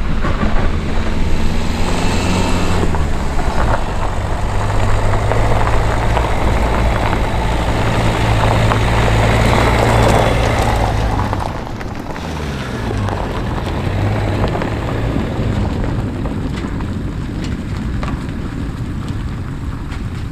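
An engine running steadily under a rushing noise, its pitch shifting about two seconds in and again about twelve seconds in, after which it runs quieter.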